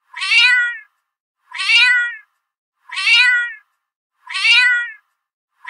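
Domestic cat meowing: the same drawn-out meow, falling in pitch at its end, repeated four times about one and a half seconds apart, with a fifth starting at the very end.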